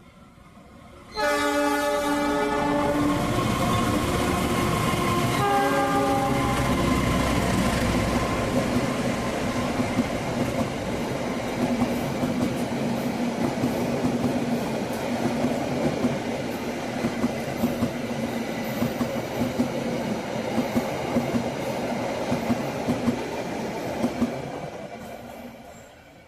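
Malabar passenger train passing at full speed. The locomotive's horn sounds a long blast about a second in and a shorter one around five seconds in. The train then rushes past, its wheels clacking over the rail joints, and fades away near the end.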